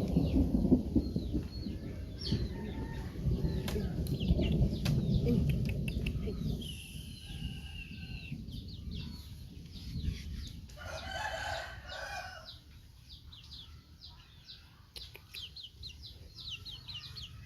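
A rooster crows once, about eleven seconds in, among many short high chirps. A low rumbling noise fills the first six seconds.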